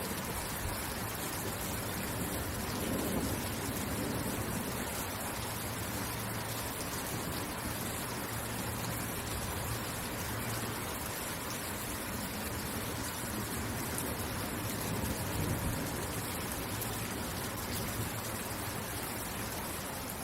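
Steady rain falling, an even hiss of drops with small swells in level a couple of times.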